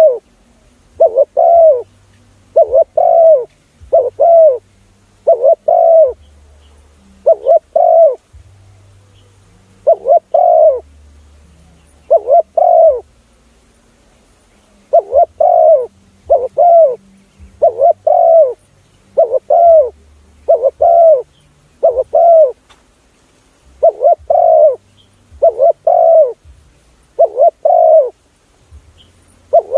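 Spotted dove cooing, a lure call used to draw in spotted doves: loud phrases of two or three low coos repeated every second or two, with a couple of short pauses.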